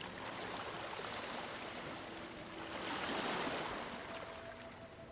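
Sea waves washing ashore, one wave swelling to its loudest about three seconds in and then drawing back.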